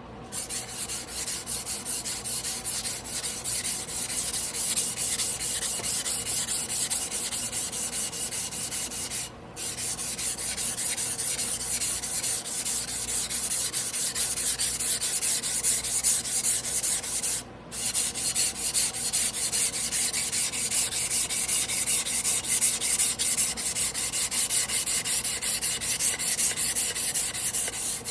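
Long Tojiro Damascus blue-steel yanagiba blade being stroked back and forth by hand on a wet whetstone, a rapid, even rasping rub. It pauses briefly twice.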